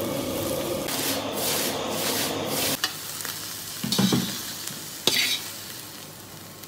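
Egg and chopped scallion leaves sizzling in a hot steel wok as they are stirred. The sizzle cuts off about three seconds in, followed by two short scrapes of a metal spatula pushing the scrambled egg out of the wok.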